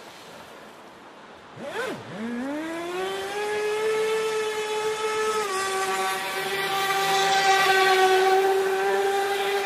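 Remote-controlled speedboat's electric motor whining at a high, steady pitch; it cuts out, and after about a second and a half it winds back up in a rising whine and runs on steadily, dropping slightly in pitch about halfway through.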